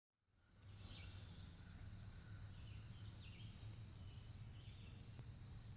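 Faint woodland ambience: distant birds singing, with short high chirps repeating every second or so and a few falling notes, over a low steady background rumble. It fades in about half a second in.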